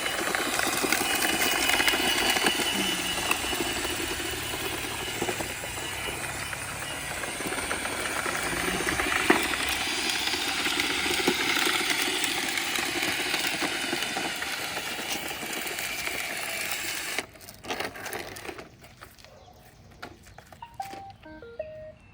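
Roomba 671 robot vacuum running over a driveway strewn with twigs and tree debris, a steady whirring noise full of small clicks as it picks up the debris. It cuts off abruptly about seventeen seconds in, leaving only scattered small clicks.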